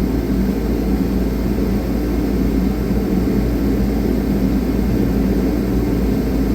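A steady, even low roar that holds at one level throughout, with no strokes or changes.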